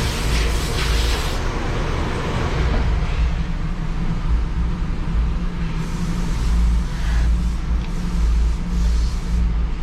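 A Jeep Wrangler Rubicon's 3.6-litre V6 running, heard from inside the cabin as a steady low rumble with road noise. Hissy swells come in near the start and again about six to nine seconds in.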